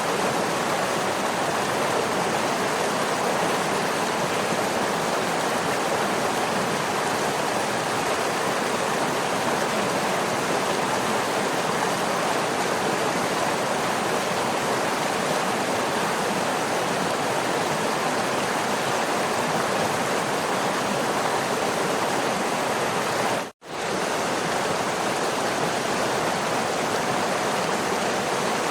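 Waterfall rushing with a steady, even roar of falling water. The sound cuts out for a split second about three-quarters of the way through, then resumes unchanged.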